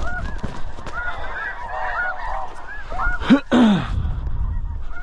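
A flock of snow geese calling, many short high honks overlapping. A louder, lower call that swoops up and down in pitch stands out about three and a half seconds in.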